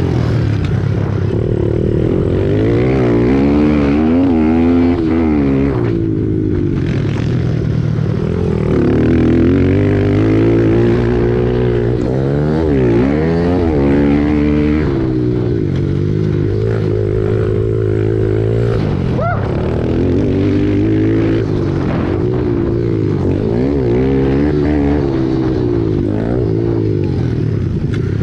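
Several pit bike engines racing, revving up and falling back again and again as the riders work the throttle and gears, their pitches overlapping.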